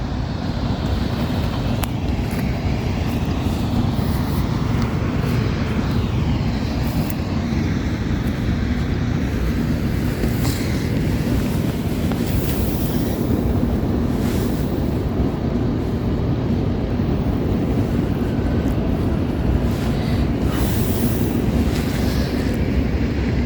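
A steady low rumble that holds even throughout.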